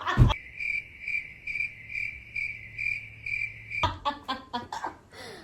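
Cricket-chirping sound effect, a high pulsing chirp about twice a second that cuts in and cuts off abruptly, edited in as the cue for an awkward silence. A few short sharp sounds follow near the end.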